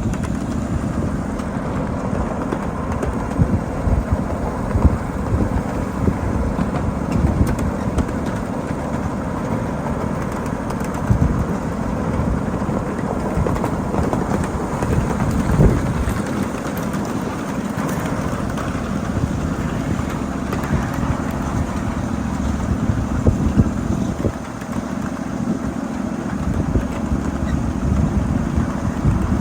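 A 7.5-inch gauge ride-on miniature freight train rolling along its track: a steady rumble of wheels on rail with frequent small clicks and knocks.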